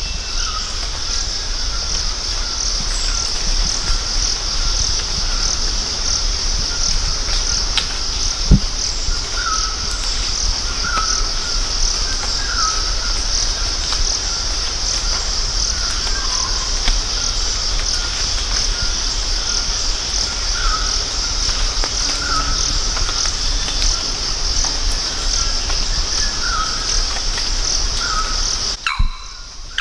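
Steady high-pitched drone of rainforest insects, with a bird repeating a short call every second or two. A single sharp knock comes about eight seconds in.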